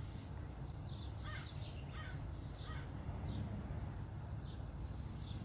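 A bird calling outdoors: three short calls about two-thirds of a second apart, then a few fainter ones, over a steady low background noise.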